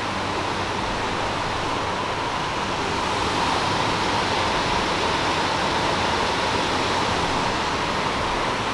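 Large waterfall rushing: a steady, unbroken noise of falling water.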